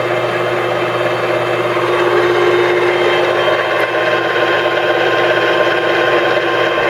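ENCO 13 x 40 inch bench lathe running under power with the longitudinal feed engaged, drawing the carriage along the bed: a steady machine hum with a few steady whining tones from the gearing.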